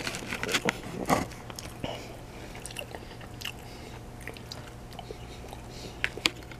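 Someone chewing a mouthful of sushi roll with tempura shrimp: moist crunching and mouth clicks, densest in the first second and a half, then sparser, with a couple of sharp clicks near the end.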